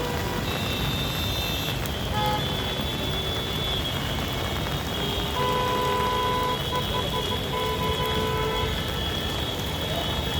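Road traffic in a jam, with a steady rumble of vehicles and horns honking over it. A horn sounds in a few short breaks from about five to nearly nine seconds in.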